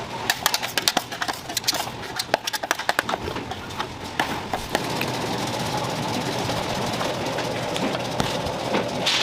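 A rapid, irregular clatter of small knocks and clicks for about four seconds, then a steady mechanical hum with a faint high tone.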